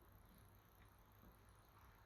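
Near silence: faint steady hiss from a close microphone.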